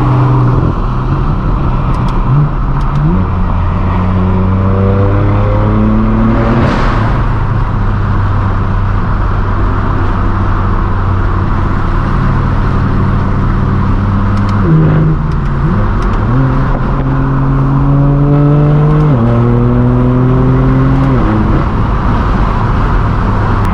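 Straight-piped BMW M4 F82's twin-turbo inline-six running loud through its AWE non-resonated track exhaust under way. It pulls up through the gears several times, with revs climbing and dropping at each shift, and holds steady stretches between the pulls.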